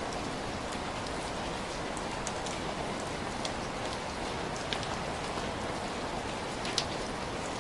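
Heavy rain falling steadily, a dense even hiss with scattered sharper drips and ticks of drops striking close by.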